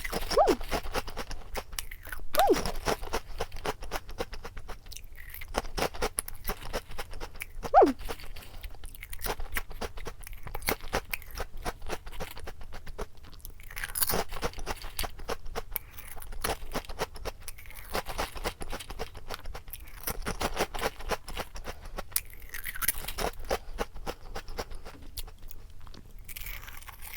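Close-up crunching and chewing of a crispy O!Gamja potato snack dipped in black aglio sauce, in dense irregular crunches throughout.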